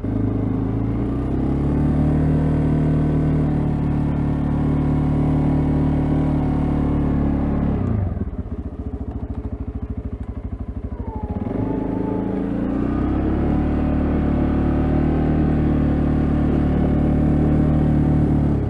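CFMoto CForce ATV engine running under load while plowing snow: it revs up and holds steady, drops back about 8 seconds in, revs up again a few seconds later and holds, then drops off at the end.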